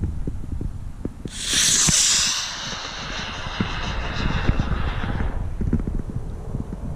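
Amateur rocket's motor igniting about a second in: a sudden loud rushing hiss that fades away over about four seconds as the rocket climbs, over wind rumbling on the microphone.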